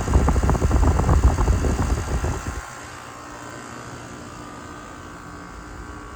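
Goodman heat pump outdoor units running, a steady hum of compressor and condenser fan with a few steady tones in it. For the first two and a half seconds a loud, irregular low rumble covers the hum, then stops.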